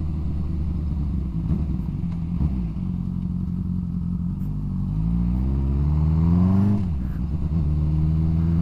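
Yamaha MT-07 parallel-twin engine running through a loud exhaust on the move, steady at first, then climbing in pitch from about five seconds in and dropping sharply near seven seconds before settling again.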